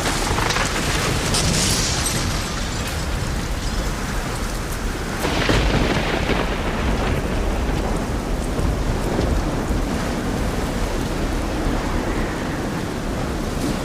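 Steady heavy rain, an even hiss, swelling louder twice, most strongly about five seconds in, when a deep low rumble comes up under it.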